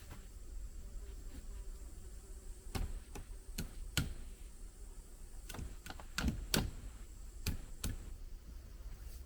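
About a dozen irregular light knocks and clicks over roughly five seconds, some in quick pairs, over a low steady rumble.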